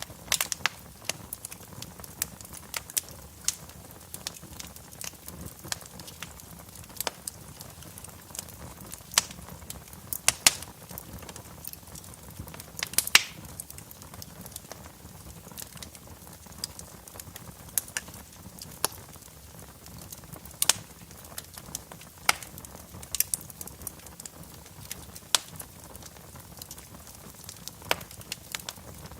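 Wood fire crackling in a fireplace: irregular sharp pops and snaps, a few a second, over a low steady hiss, with a couple of louder pops about ten and thirteen seconds in.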